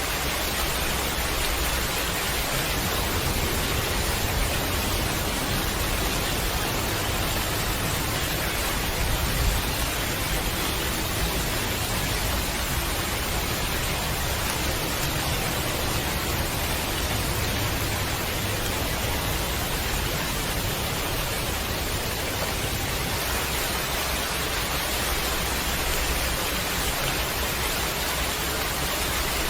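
Steady heavy rain falling, an even hiss of water without breaks, with a low rumble underneath and one brief louder thump about a third of the way in.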